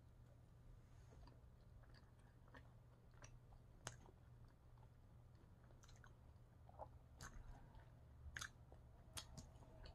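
Faint close-up chewing of a soft tortilla wrap, with scattered small mouth clicks.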